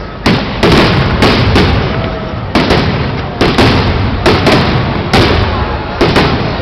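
Aerial fireworks shells bursting in a rapid barrage, about two loud bangs a second, each trailing off before the next.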